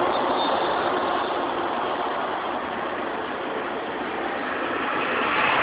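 Union Pacific double-stack container train rolling past: a steady noise of wheels and cars on the rails, swelling slightly near the end.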